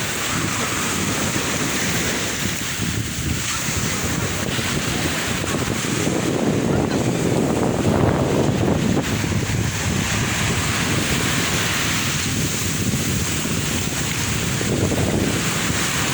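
Sea waves breaking and washing ashore in slow surges, loudest about halfway through and again near the end, with wind noise on the microphone.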